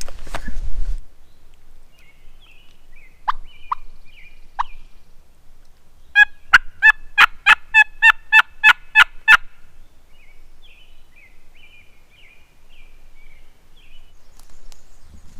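Hen-turkey yelping on a hunter's turkey call: about a dozen loud, evenly spaced yelps over some three seconds, sent out to strike a gobbler. A few single clucks come shortly before, and small birds chirp faintly.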